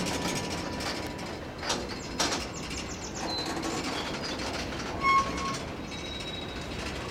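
Low rumble of a freight train working in a rail yard, with two sharp clanks about two seconds in. Short bird chirps sound over it, the loudest about five seconds in.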